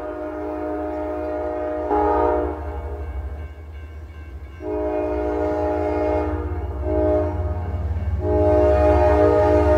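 CSX freight train's locomotive air horn blowing the grade-crossing signal. A long blast, a pause, a second long blast, a short one, then a final long blast held on, over the steady low rumble of the diesel locomotives.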